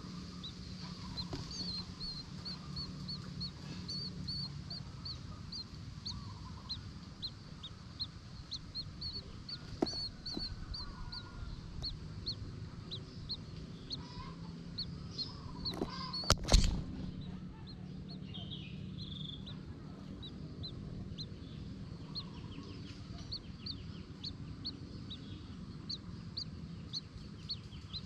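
A small bird calling over and over with short, high, evenly repeated notes, a few each second. There is a steady low hum underneath, and a single loud knock about two thirds of the way through.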